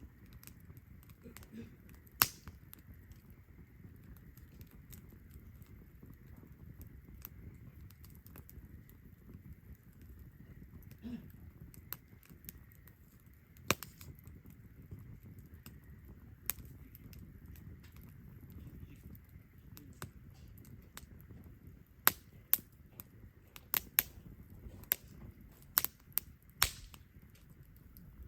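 Wood campfire burning, with sharp crackles and pops: a few scattered ones, then a quick run of about eight near the end, over a low steady rumble of the fire.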